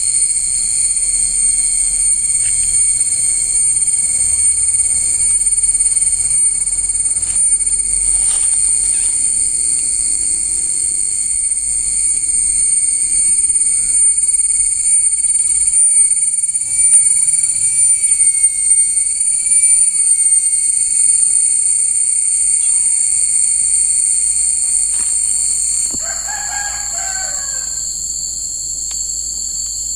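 Insects shrilling steadily in several high-pitched, unbroken tones. Some of the tones cut off suddenly about 26 seconds in, and a short animal call is heard just after.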